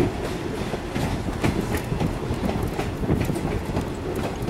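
Railroad car rolling along the track: a steady low rumble with irregular clicks and knocks from the wheels over the rails, heard from the car's open end.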